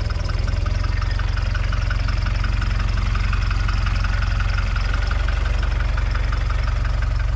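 Mitsubishi Lancer's petrol-car engine idling steadily, close up.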